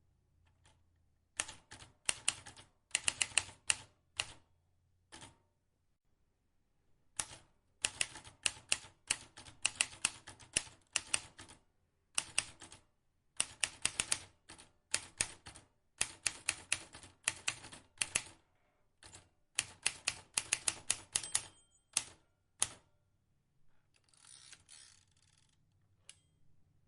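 Vintage typewriter keys being struck in quick runs of sharp clicks, with short pauses between the runs.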